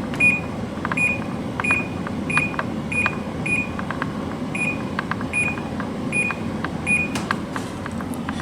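Samsung 10,200 BTU window air conditioner: its control panel gives about a dozen short high beeps at uneven spacing, each with a faint click, as its buttons are pressed, over the steady hum of the fan running. The compressor has not yet kicked on.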